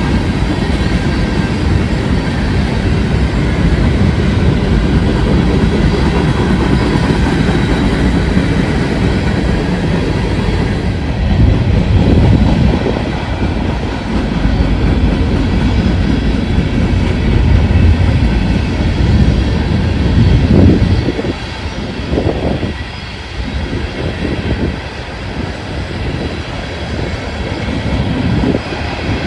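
Freight train rolling past: a heavy, steady rumble with faint steady tones in the first half, giving way from about twenty seconds in to a lighter rumble broken by irregular clacks of wheels over rail joints.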